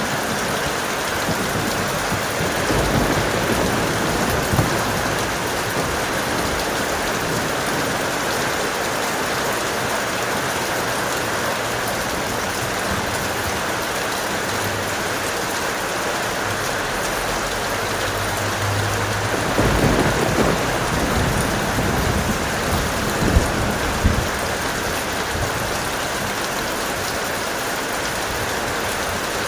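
Heavy rain falling steadily in a continuous hiss. Low rolls of thunder swell under it, the strongest about twenty seconds in, with a couple of sharper cracks soon after.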